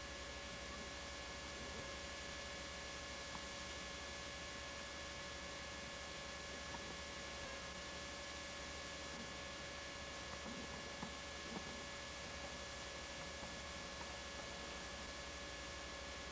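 Steady hiss with a constant electrical hum of several fixed tones, from a poor old home-video recording, and a few faint ticks; no other scene sound comes through.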